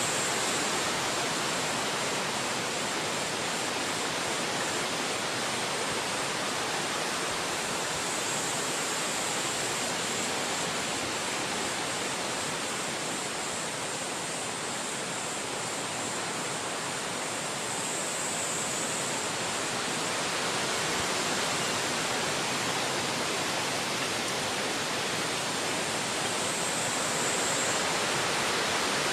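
Wind blowing through forest trees: a steady, even rushing that swells and eases a little.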